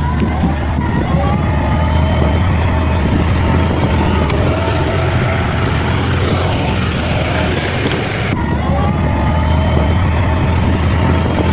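Bulldozer's heavy diesel engine running steadily with a deep rumble, with faint wavering higher-pitched whines over it.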